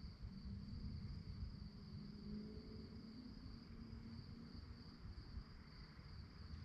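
Crickets chirping in a steady, unbroken high trill, faint, over a low background rumble.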